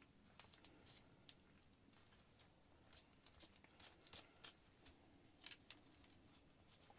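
Near silence, with faint light clicks and taps scattered through it from handling the replacement iPad glass and its flex cable.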